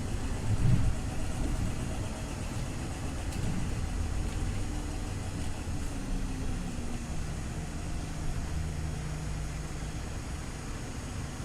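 Scania OmniLink CL94UB city bus engine running, with its note falling over the middle seconds and then holding steady.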